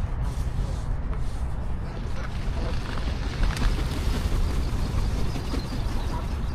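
Outdoor ambience: a steady, uneven low rumble, with faint voices and small ticks in the middle.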